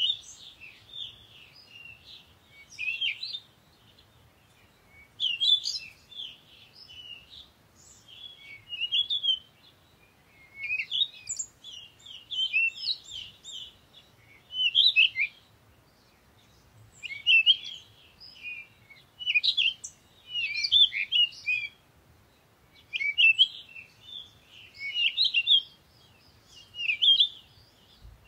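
Small birds chirping and twittering in short bursts of quick high notes every two to three seconds, with quiet gaps between.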